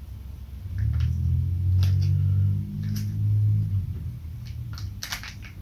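A person making a long, low closed-mouth 'mm' hum while chewing, followed by a few sharp mouth clicks and lip smacks near the end.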